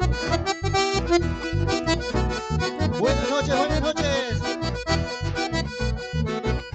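Accordion-led conjunto dance music with bass on a steady beat. About three seconds in, a short gliding cry rises over it for about a second and a half.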